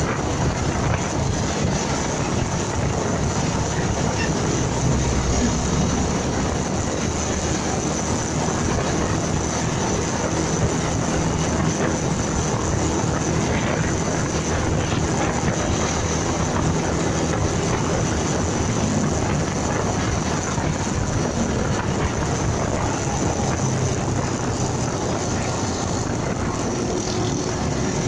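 Motorcycle under way: engine running with steady wind and road noise on the dashcam microphone, with no sudden events.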